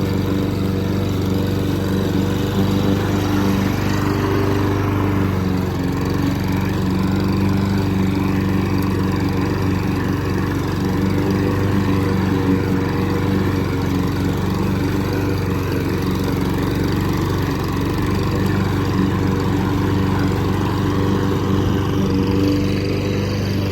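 Lawn mower engine running steadily while mowing grass.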